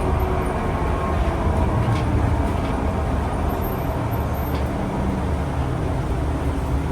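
Steady low rumble of a public transport vehicle in motion, with a couple of faint clicks.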